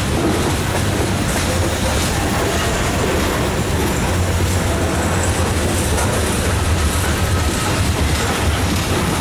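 Freight train cars, mostly covered hoppers, rolling past: steel wheels running steadily on the rails.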